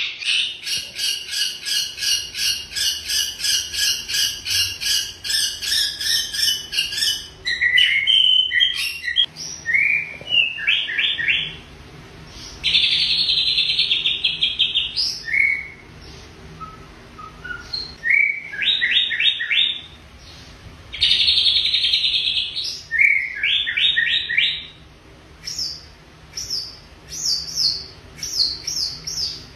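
A songbird singing: first a fast even run of repeated chirping notes, about three or four a second, then from about seven seconds in a string of varied short phrases with rising whistles and several buzzing trills.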